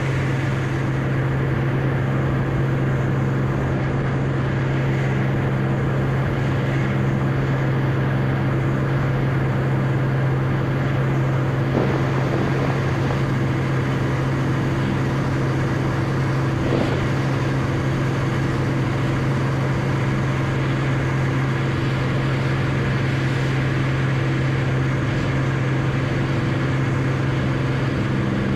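Beechcraft Bonanza's piston engine and propeller droning at a steady pitch in flight.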